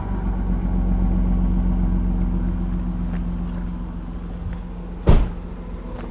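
BMW E36 325is straight-six engine idling steadily after being revved, with no ticking. About five seconds in there is a single sharp thump.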